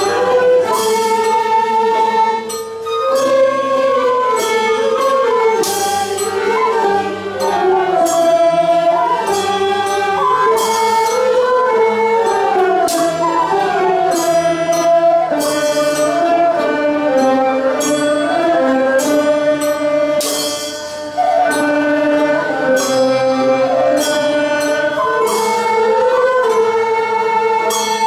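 Nanguan ensemble music: a slow melody of voices singing with instruments, gliding between held notes and marked by percussion strokes that recur at regular intervals.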